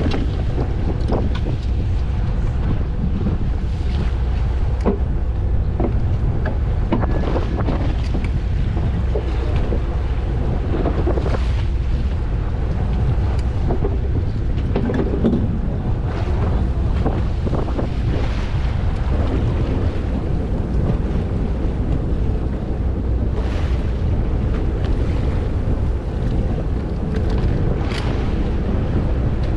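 Wind buffeting the microphone aboard a small fishing boat at sea, over a steady low rumble, with scattered small knocks and clicks.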